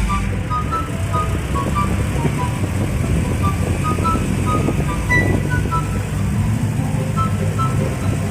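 Car running on the road: a steady low engine and road rumble, with short, scattered high tones at several pitches over it.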